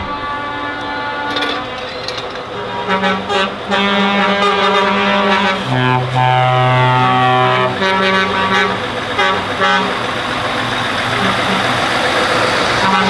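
Lorries in a passing convoy sounding their air horns, several long blasts of different pitches overlapping, over the running of heavy diesel engines. One horn falls a little in pitch as it goes by.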